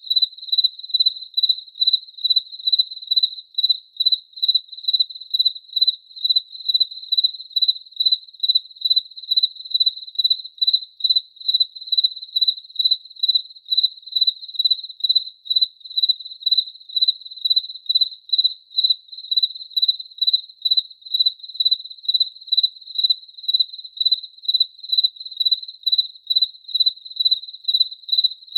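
A cricket chirping steadily on one high note, in an even rhythm of about two chirps a second.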